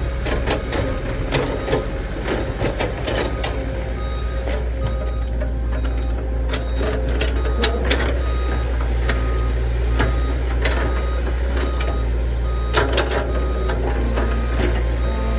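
Heavy diesel machinery running steadily, with repeated metal knocks and clanks as an excavator works beside a dump truck. A faint, evenly broken beeping tone sounds through it.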